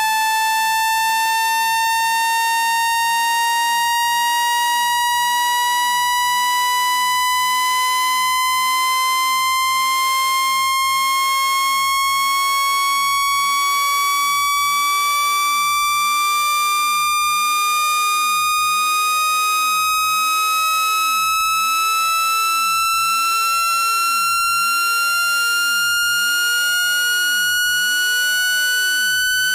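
Electronic speaker-cleaning tone: a steady, buzzy synthetic tone with many overtones that climbs slowly and evenly in pitch. It is played through a phone speaker at full volume to shake trapped water out of it.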